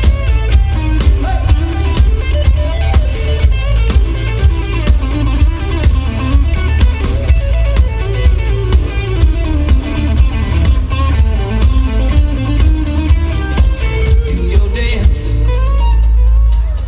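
Live rock band playing an instrumental passage: an electric guitar plays a wandering lead line over bass guitar and drums.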